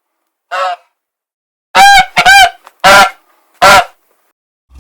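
Goose honking: five short, harsh honks, the first fainter and the other four louder and closer together.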